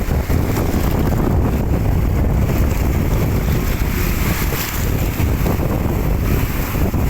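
Wind buffeting the microphone: a loud, steady rumble with constant gusty fluctuation.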